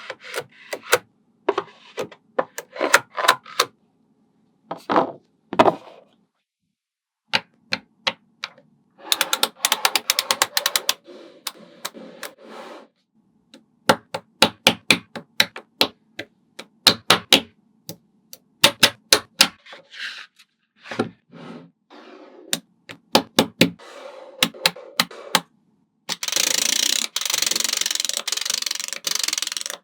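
Small magnetic balls clicking and snapping together one by one in sharp, irregular clicks, with two stretches of continuous rattling as many balls clatter against each other, about a third of the way in and near the end.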